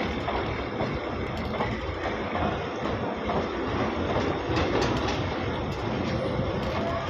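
Freight flat wagons loaded with concrete sleepers rolling past close by, a steady rumble of steel wheels on rail with clacks over the joints and faint thin wheel squeal now and then.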